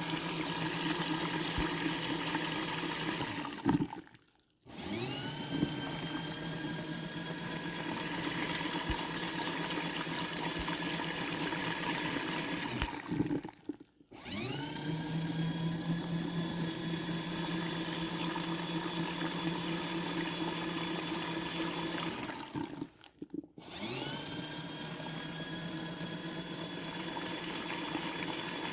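Krneaoch 6-litre mini folding washing machine running its wash cycle: a small motor humming steadily as it churns the water. Three times the motor stops for about a second and starts again, each time with a rising whine as it spins back up.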